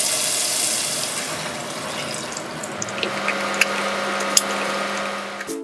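Food frying in hot fat: beef cubes searing in butter, then eggs frying in a pan, a steady sizzle with a few sharp pops.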